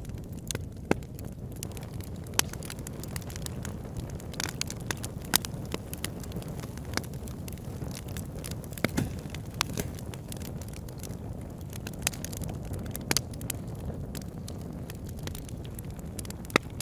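Fireplace fire burning: a steady low rumble of flames with irregular sharp crackles and pops, a few of them much louder than the rest.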